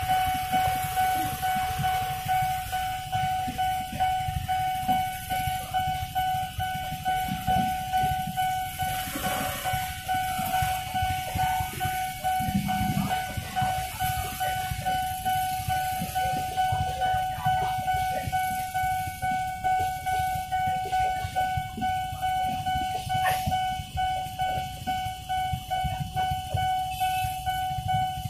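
A level-crossing warning alarm holds a steady high tone while a KRL electric commuter train rumbles past, its low rumble pulsing rapidly.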